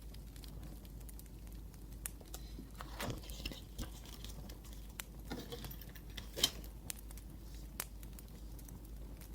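Wood fire crackling with scattered small pops, under pen-on-paper writing sounds: short scratchy strokes, louder around three seconds in and again near six and a half seconds.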